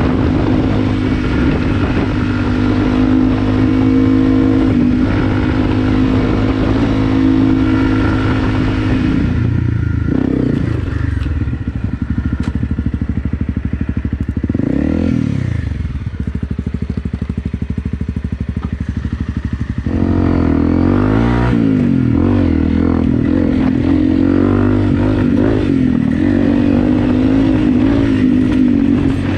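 Honda CRF250 Rally's single-cylinder four-stroke engine being ridden with the throttle varying. It pulls steadily for about the first nine seconds, then eases off, gives a quick rising-and-falling rev about halfway, and comes back on the throttle about two-thirds of the way through with a wavering pitch.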